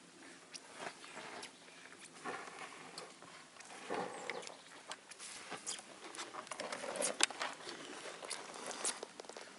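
Light rustling and scattered sharp crackles of dry leaves and twigs.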